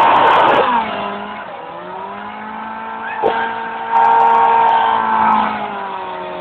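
Motorcycle engine revving hard, then dropping to lower revs about a second in and holding there. It rises and gets louder again around four seconds in, then falls off near the end.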